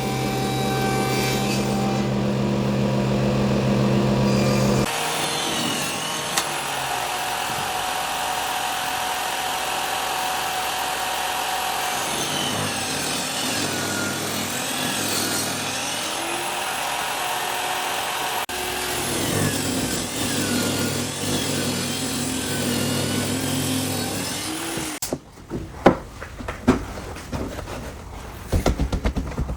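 A power tool running and working wood. It starts as a steady motor hum, then about five seconds in it suddenly gives way to a noisy cutting sound whose pitch swoops up and down for about twenty seconds. Near the end it stops, and a few sharp knocks of wood being handled follow.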